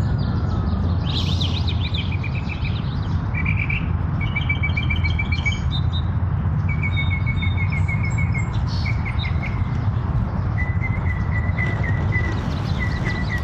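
Small songbirds chirping, with a run of short trills of quick repeated notes one after another. A steady low rumble runs underneath.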